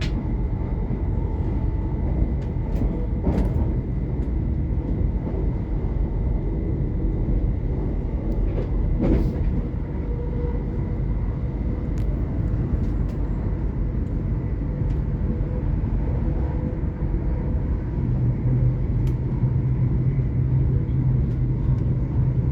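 Inside a Class 800 IET train on the move: a steady rumble of the wheels on the rails with faint steady whines over it. Two brief knocks come through early on and about nine seconds in, and a deeper hum swells in near the end.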